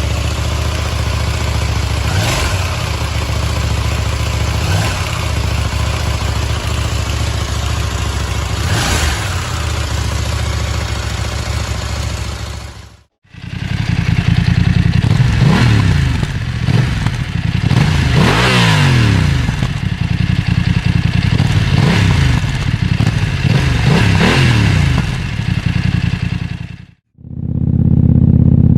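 Parallel-twin motorcycle engine under way with wind rush, running at a fairly even pitch. About 13 s in, after a cut, the engine repeatedly revs up and drops in pitch through gear changes under hard acceleration. Another cut comes near the end.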